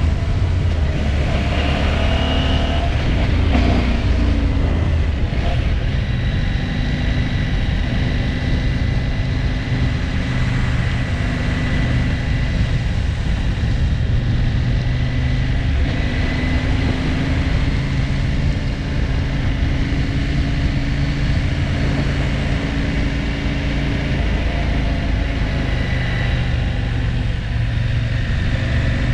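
KTM 790 Adventure R's 799 cc parallel-twin engine running at fairly steady revs under way. The bike has a fault that makes it hesitate and stall, which the owner traces to a failed immobiliser that may have put the engine into safe mode.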